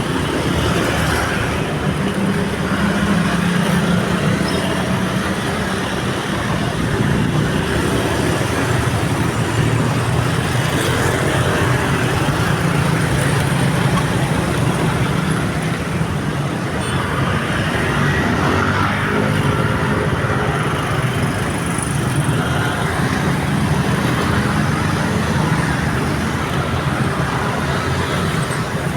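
Steady road traffic noise: vehicles running and passing continuously at a road crossing.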